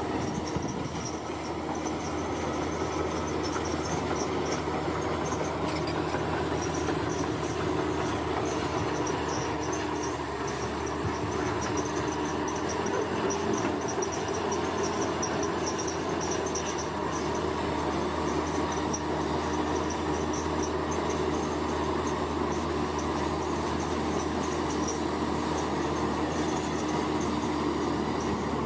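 Bulldozer's diesel engine running steadily under load, with a high, pulsing chirp over it throughout.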